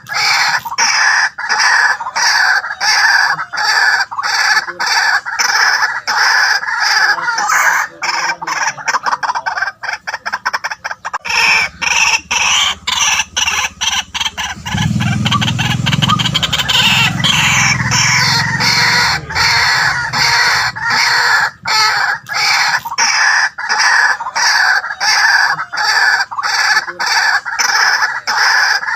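White-breasted waterhen calling, a rapid, unbroken run of repeated loud notes, the kind of call used to lure the bird.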